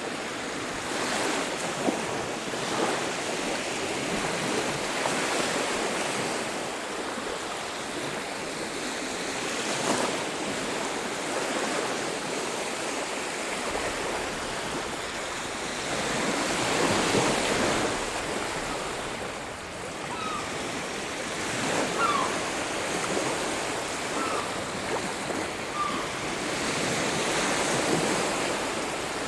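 Sea surf washing onto a beach, the waves swelling and ebbing every few seconds. About two-thirds of the way through come four brief chirps.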